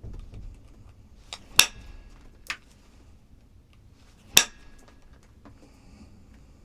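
Three sharp, glassy clinks of stone being struck in knapping: two close together, then one more about two seconds later. The first and last are the loudest and ring briefly.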